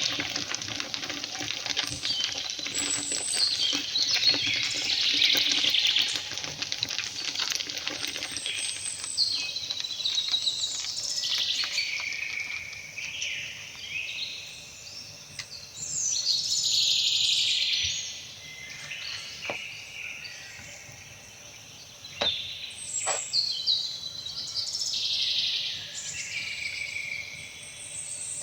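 Birds singing and chirping. For about the first eight seconds a steady hiss runs under them, then stops.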